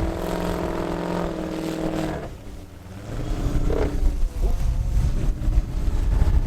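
Truck engine running at steady high revs while driving through deep snow, then backing off about two seconds in, followed by a low rumble.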